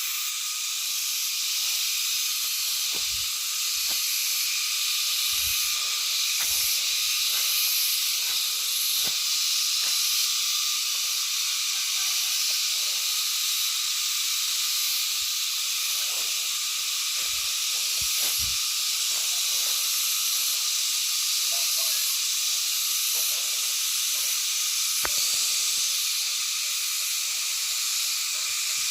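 Dense, steady, shrill chorus of night insects, with a few soft low thumps underneath.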